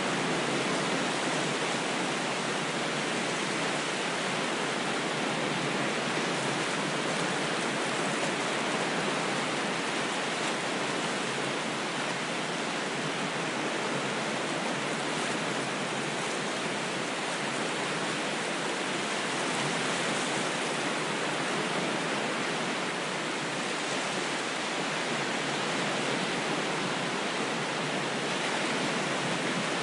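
Steady, even rush of water noise with no separate wave breaks or swells.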